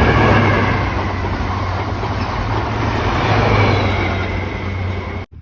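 A train passing close by: a loud, steady rumble of wheels on rail and engine, with a faint high squeal on top. The sound cuts off suddenly near the end.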